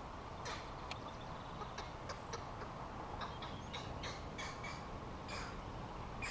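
Birds calling around the water: a scatter of short, harsh calls, several a second at times, over a steady low background hiss.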